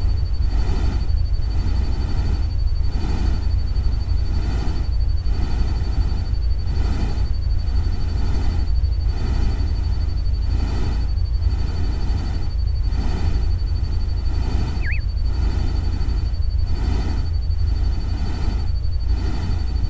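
Looped nature-sound ambience made of rain and running-water noise over a steady deep rumble, swelling and easing about once a second. A thin steady high tone runs through it, and one brief chirp comes about fifteen seconds in.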